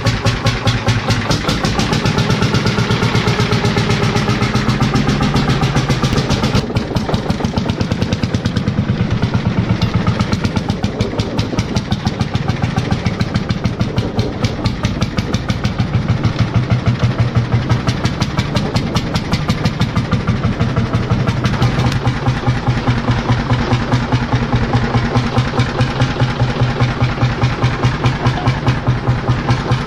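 Ursus C45 tractor's single-cylinder hot-bulb two-stroke engine, a Lanz Bulldog copy, running with a fast, even knocking beat.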